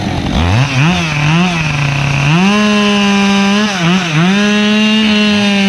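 Chainsaw revved up and down in quick blips, then held at high revs as it cuts into wood, dipping briefly twice near the end.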